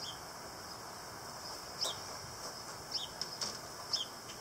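A small bird chirping a few short, high, falling notes over the steady hum of honeybees at an open hive.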